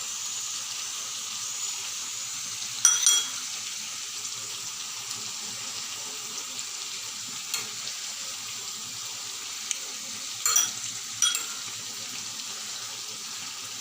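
Chicken curry sizzling steadily in a pan just after cream has been stirred in, with a few sharp clinks of a utensil against the pan, the loudest about three seconds in and again near the end.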